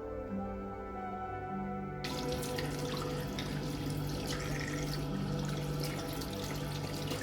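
Water running steadily, starting suddenly about two seconds in, over soft, slow background music.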